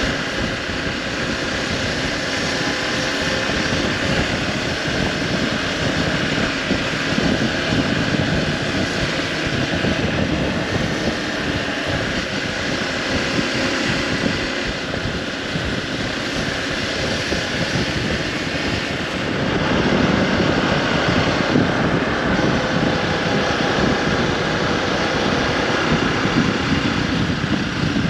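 Hero Xpulse 200 4V's single-cylinder engine running steadily under way, with wind noise. It grows louder about two-thirds of the way through.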